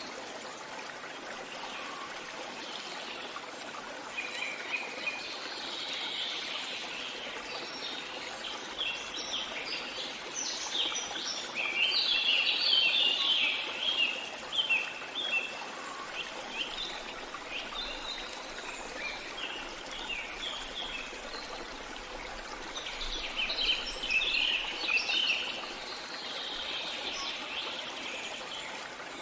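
A flowing stream with songbirds singing over it: a steady rush of water underneath, and bursts of quick chirping phrases that come and go, busiest in the middle and again near the end.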